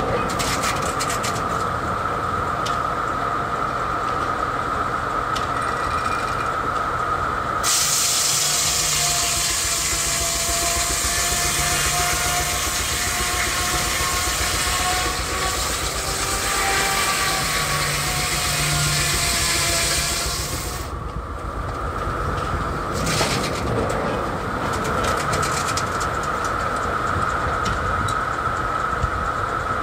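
A steam-engine-driven sawmill blade whines steadily at speed. From about 8 s to 21 s a loud, hissing cut goes through the log, with the blade's whine sagging lower under load, then returning to the free-running whine.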